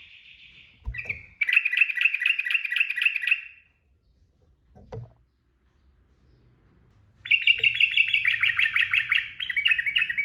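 Sooty-headed bulbul (trucukan) singing two fast, bubbly song phrases, each a few seconds long, separated by a pause that holds a soft low thump.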